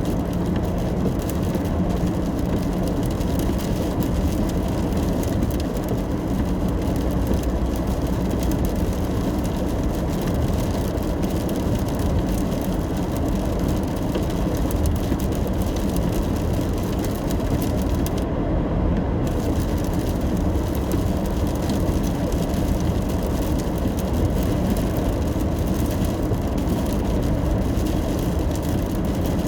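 Steady low rumble of a car driving on wet roads in the rain, heard from inside the car: tyre and engine noise under a thin hiss. The hiss briefly drops out a little past halfway.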